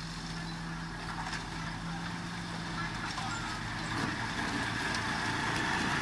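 Heavy diesel construction machinery running steadily, its engine note changing about halfway through and growing a little louder toward the end.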